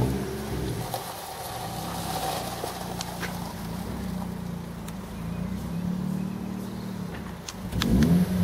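Vauxhall Corsa B 1.2 16v four-cylinder petrol engine running at low revs as the car reverses slowly over a gravel drive, with a few sharp ticks. The engine grows louder near the end as the revs rise.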